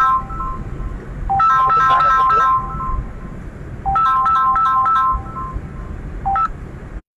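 Mobile phone ringtone: a short melody of stepped electronic notes, played twice about two and a half seconds apart, over a low steady background rumble. The sound cuts out briefly near the end.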